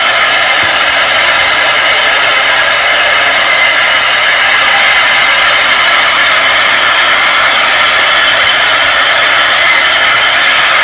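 Steady, loud rushing noise with no distinct events, even and unchanging throughout.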